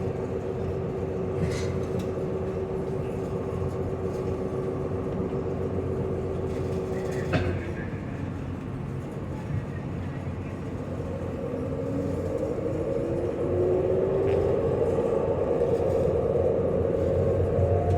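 Steady drone of a high-speed ferry's engines under way. A steady hum cuts out with a click about halfway through, and then a tone slowly rises in pitch as the machinery changes speed.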